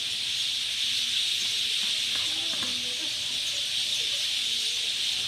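Dense chorus of many birds chirping together, blended into a continuous high-pitched hiss with no single call standing out. Faint distant voices are heard underneath.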